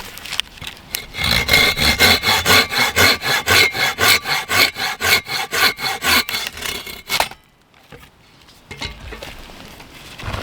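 Hand saw cutting through wood in quick, even strokes, about four a second, which stop abruptly near the end.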